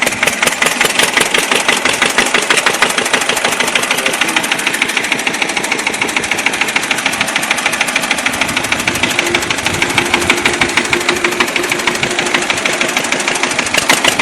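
Engine of a homemade remote-control mini tractor running steadily, with a fast, even chugging.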